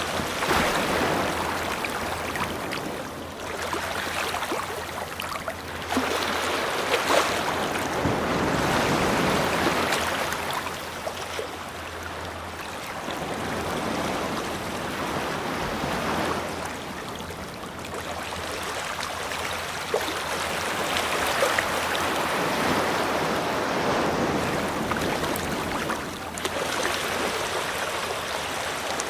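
Ocean waves breaking and washing on a beach, the surf swelling and ebbing every few seconds.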